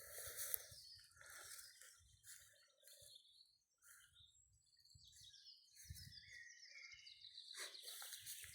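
Near silence outdoors, with faint bird chirps, a cluster of them a few seconds before the end.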